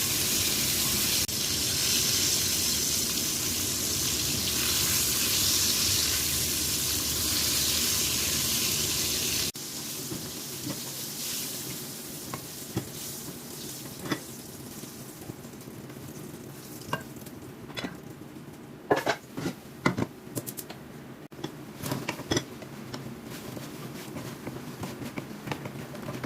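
Chicken wings sizzling as they fry, a steady loud hiss that cuts off suddenly about nine seconds in. After that, a quieter stretch with scattered clinks and taps of utensils.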